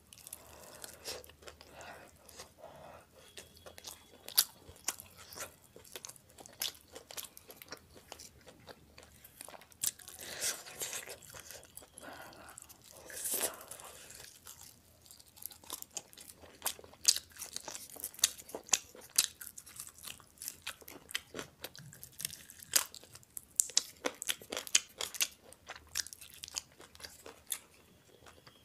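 Fried chicken lollipop being bitten into and chewed, with many irregular crisp crunches and a few louder bites.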